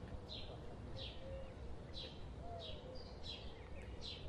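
Bird chirping: a steady series of short, high, descending notes, about two a second, over a low outdoor rumble.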